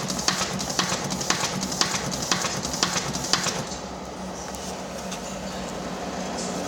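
A machine running after repair, with sharp mechanical clacks about twice a second over a steady motor hum. The clacking stops about three and a half seconds in, leaving the steady hum.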